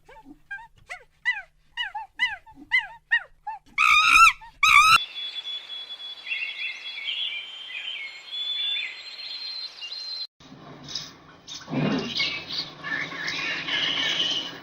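Animal calls, mostly bird-like chirps. A run of short, quick chirps about two a second ends in two louder calls around four seconds in. A hissy stretch of warbling calls follows and cuts off suddenly about ten seconds in, then a busier mix of calls.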